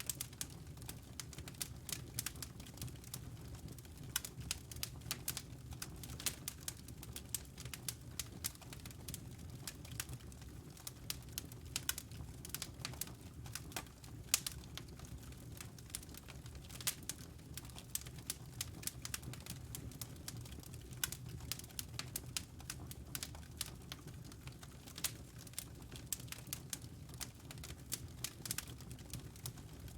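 Wood fire crackling in a fireplace: irregular sharp snaps and pops of burning logs over a steady low rumble of the flames.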